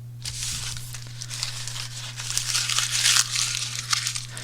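Steel knife blade scraping across a sharpening stone: a scratchy rasp that swells and fades over several strokes, loudest about three seconds in, as the edge is honed to remove a small chip. A steady low hum runs underneath.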